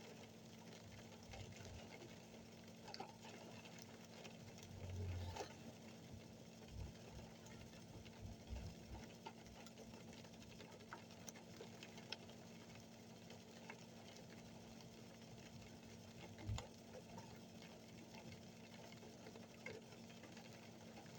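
Near silence: a faint steady hum with scattered soft clicks, and a brief low thump about five seconds in and another later.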